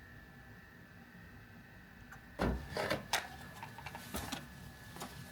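Quiet background with a faint steady high-pitched tone, then from about halfway in a few sharp knocks and rustles, like something being handled or bumped.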